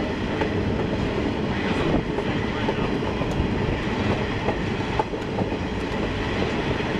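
A steam-hauled passenger train rolling along the track, heard from aboard one of its cars: a steady rumble of wheels on rails, with occasional faint clicks and knocks.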